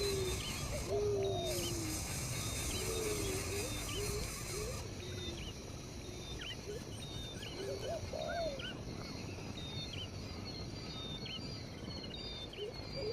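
Birds calling: a low call that glides up and down, repeated several times, over many short, high chirps.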